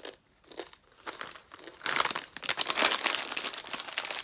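Plastic bag of plantain chips crinkling and crackling as it is handled, with a few light rustles at first and steady crinkling through the second half.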